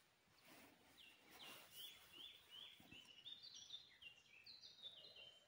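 Faint songbird singing: a run of short, slightly falling whistled notes, a few a second, starting about a second in. Under it, faint hissing of water heating in a pot over a campfire.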